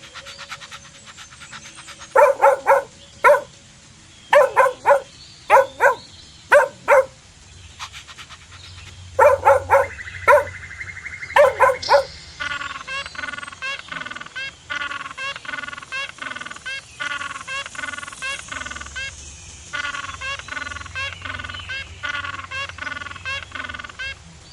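Dog barking: loud, short barks in quick groups of two or three, then a long run of quieter, rapid high-pitched calls.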